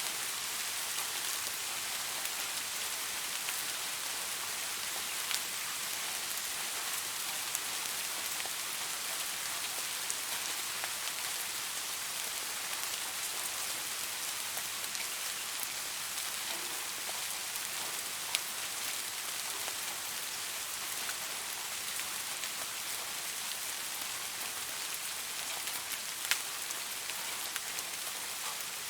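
Steady rain falling on leaves, an even hiss with a few sharper single drops standing out now and then.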